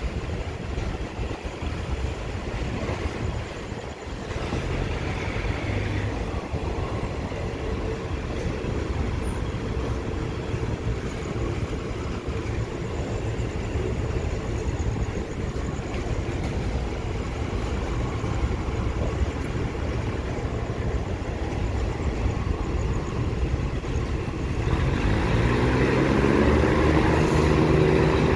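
Moving passenger train heard from inside the coach: a steady rumble of wheels on the rails with air rushing past. Near the end the diesel engine's drone grows louder and climbs in pitch as the train picks up speed.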